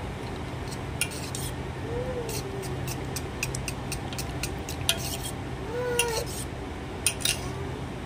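Metal utensils clinking and scraping against a pot or bowl in a series of sharp irregular clicks, over a steady low hum. Two brief wavering tones come about two and six seconds in.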